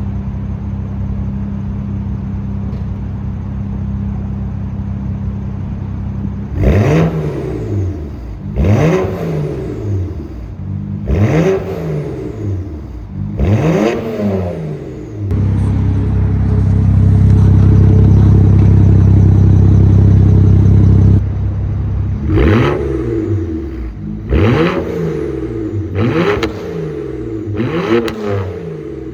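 BMW 335i's turbocharged 3.0-litre inline-six running through a VRSF muffler delete and catless downpipes, loud and unmuffled. It idles steadily, is blipped four times with the revs falling back each time, is held at a steady higher rpm for about six seconds, then is blipped four or five more times.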